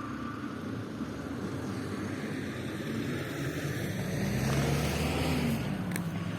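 4x4 truck engine running under load, growing louder and deeper about four seconds in as it is revved. A sharp click comes near the end.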